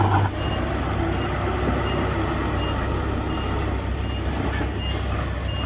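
Reversing alarm beeping about once every three-quarters of a second over a running diesel engine, a heavy machine backing up. The engine note drops a little just after the start.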